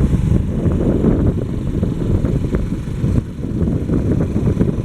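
Motorcycle on the move: a steady low rumble of wind buffeting the microphone over the running engine.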